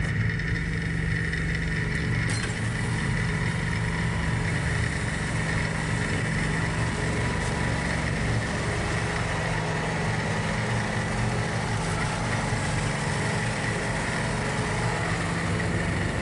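John Deere 4110 compact tractor's three-cylinder diesel engine running at a steady speed, with a steady high whine alongside the engine note.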